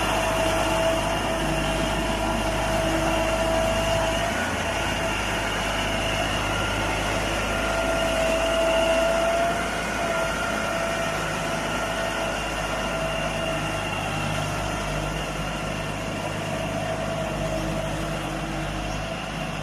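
Engine of a rotary soil-tilling machine running steadily, with a thin whine held over it that drifts slightly in pitch.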